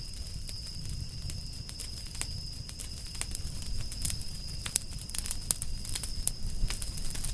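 Firewood burning in a campfire, with irregular sharp crackles and pops over a low rumble of flame; the crackling comes from water and resin boiling out of the wood. A thin, steady high tone runs underneath.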